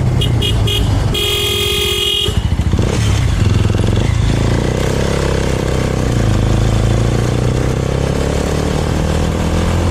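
A vehicle horn gives three quick short toots, then one long blast lasting about a second. It sounds over the steady running of a Suzuki motorcycle engine and wind noise while riding.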